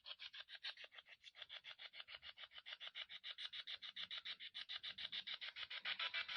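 EVP ghost box scanning through radio frequencies, giving a fast, even stutter of faint static blips, about nine a second.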